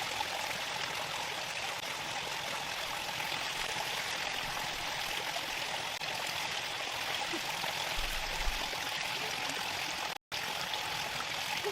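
Steady rush of flowing water, like a rainforest stream running over rocks, cutting out for an instant about ten seconds in.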